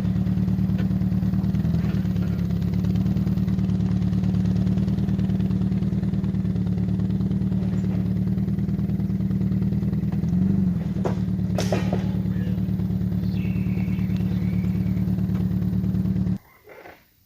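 A vehicle engine running steadily at low speed, with a few sharp clicks and knocks about two-thirds of the way through. The engine sound cuts off abruptly shortly before the end.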